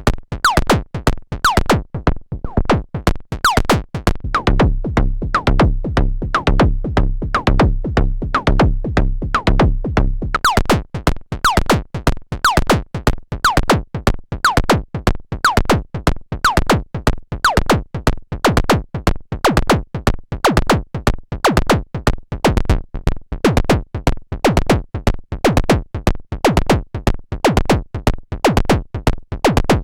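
Analog drum synthesizer running a fast sequenced percussion pattern. Each hit is a sharp click with a quick downward pitch sweep. From about four seconds in to about ten seconds in, a low bass tone sits under the hits.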